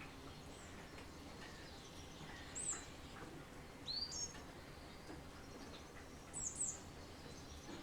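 Wild songbirds calling: three short bursts of high, quick chirps, a little more than a second apart, over a faint steady hiss of light rain.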